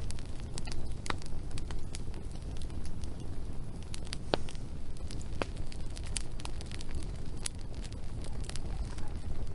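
Wood fire burning, with irregular crackles and sharp pops over a steady low rumble.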